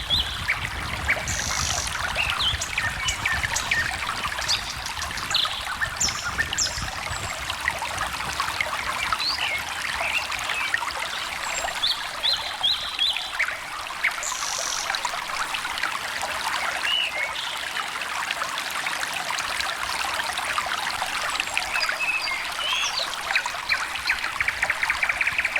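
A small stream trickling and babbling steadily, with several birds chirping and whistling over it in short, scattered calls.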